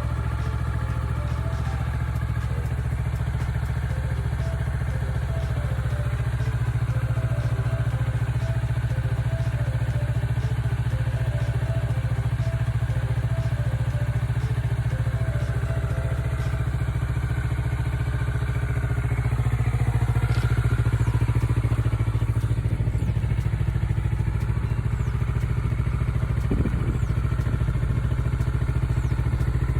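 Kawasaki Ninja 400R's parallel-twin engine idling steadily after a cold start, running fine on its original battery after three months unused. It gets slightly louder about two thirds of the way through.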